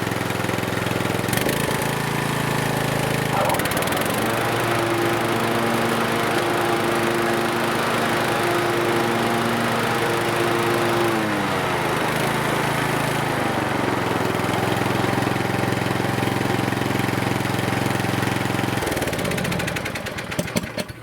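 Newly installed 17.5 hp, 500cc Briggs & Stratton engine running steadily on a pull-behind finish mower, its cutting blades spinning. The pitch drops about eleven seconds in, and the engine shuts off near the end.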